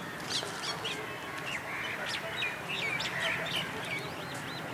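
Small birds chirping and calling, many short high notes overlapping, with a quick run of repeated rising-and-falling notes near the end.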